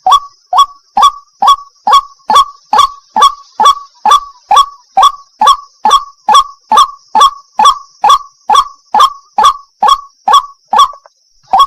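White-breasted waterhen (the Malay 'wak-wak' bird) calling: a long, even series of short, upward-sliding honking notes, a little over two a second, with a brief pause near the end. A steady faint high hiss runs underneath.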